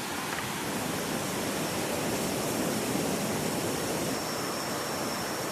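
Steady rushing of a waterfall, an even noise with no separate events. A faint, high, steady whine comes in about a second and a half in.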